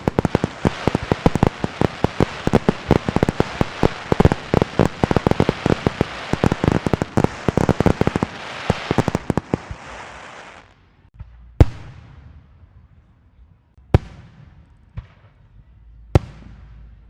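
Firecrackers going off in a dense, rapid string of bangs for about ten seconds. After a short lull come four separate sharp bangs, each trailing off briefly.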